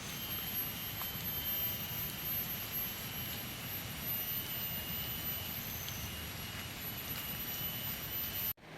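Steady forest ambience: an even hiss with thin, steady high-pitched insect drones over it, cut off abruptly near the end.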